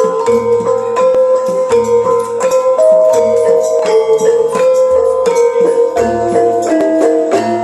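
Gamelan-style ebeg music played loudly: ringing struck metallophone notes over steady repeated low drum beats, with light jingling percussion.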